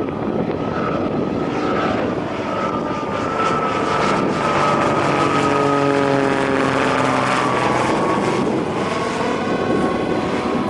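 Twin-engine jet airliner passing close by, a loud rush with an engine whine that falls steadily in pitch as it goes past.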